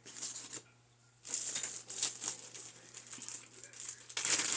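Packing paper rustling and crinkling as wrapped rock specimens are unwrapped and handled. The sound starts about a second in and grows louder near the end.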